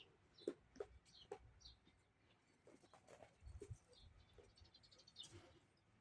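Faint, scattered short high chirps of small birds, with soft taps in between.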